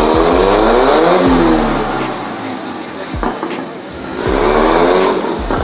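Car engine revving up and dropping back twice, its pitch rising and falling, with a high whistle sliding down in pitch and a few sharp pops.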